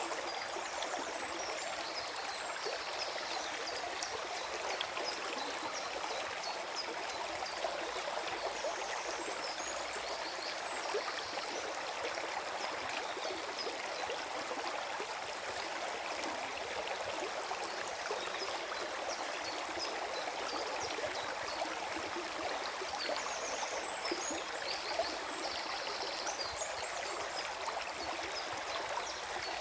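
Forest stream flowing and gurgling, a steady rush of water dense with small splashes.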